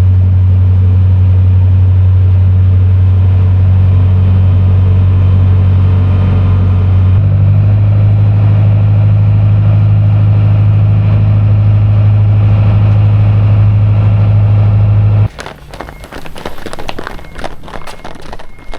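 A very loud, steady low drone that steps up slightly in pitch about seven seconds in and cuts off abruptly near the end, followed by running footsteps.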